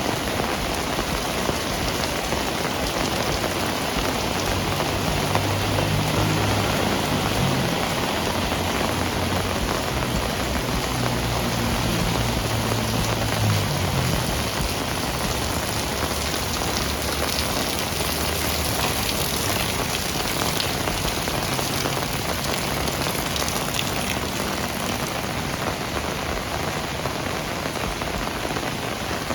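Heavy rain falling steadily, a dense even hiss of rain on surfaces. A low hum rises under it for about ten seconds early in the stretch and returns briefly later.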